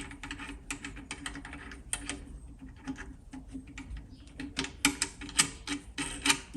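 Irregular metallic clicks and clatter of tools and steel parts being handled at a workbench, with a run of sharper, louder clicks in the last two seconds.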